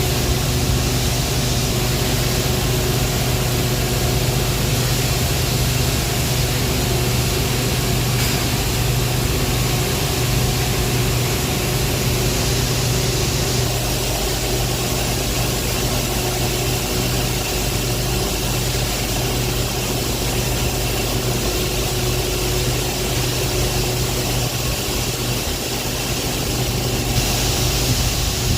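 Heavy industrial machinery running steadily: a loud, constant low hum with a steady hiss over it, unchanging throughout.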